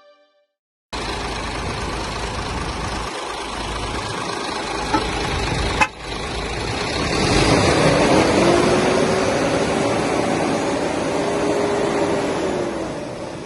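Isuzu Forward truck's engine running, cutting in abruptly with rumble and hiss. There is a sharp click about six seconds in. Then a steady whine rises, holds, and falls away near the end.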